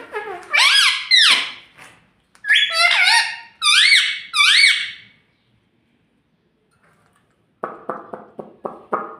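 Indian ringneck parrot calling: a string of shrill squawks, each gliding up and down in pitch, over the first five seconds. After a short pause, a quick burst of harsh rapid chatter comes near the end.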